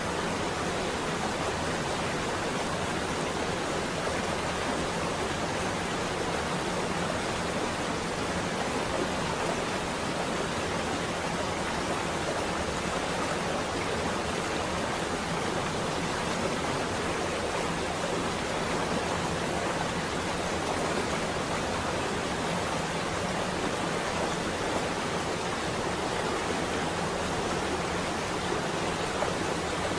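Steady rain falling on a window: an even, unbroken hiss.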